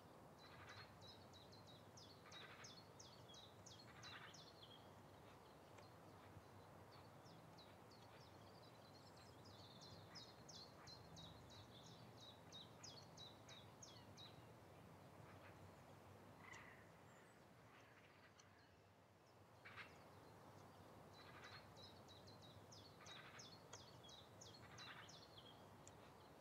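Faint birdsong: fast, high trills of rapid notes in three long phrases (at the start, in the middle and near the end), with a few shorter, lower calls between, over a steady faint hiss of outdoor ambience.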